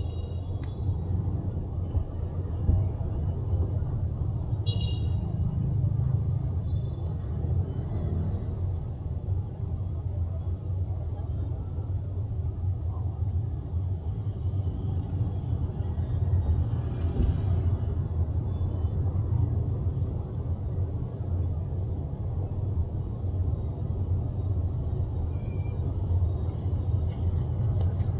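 Steady low rumble of road traffic or a running car, even throughout, with no sharp knocks.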